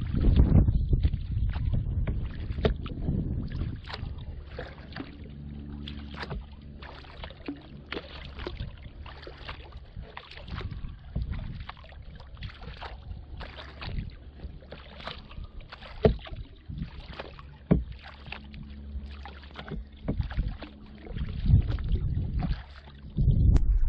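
Kayak paddle strokes splashing and dripping in the water, one after another, with wind rumbling on the microphone at the start and end. Two sharp knocks stand out about two-thirds of the way through.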